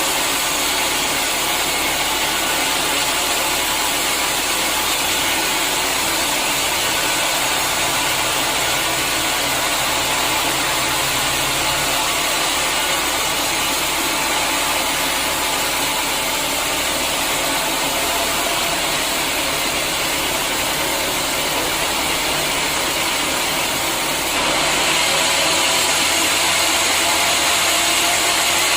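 Sawmill saw running with a steady mechanical drone; about 24 seconds in it turns louder and harsher.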